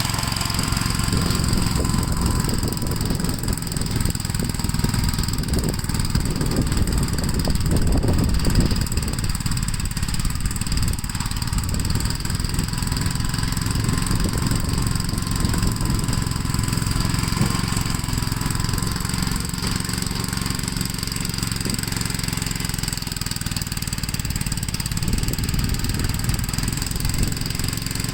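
Gravely L8 walk-behind tractor's engine running steadily under load while plowing snow, with a loud, rough chugging beat.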